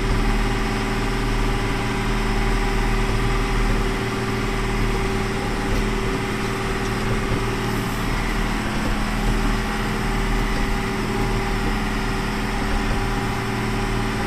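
Large farm tractor's engine running steadily, heard from inside the enclosed cab while the tractor is driven.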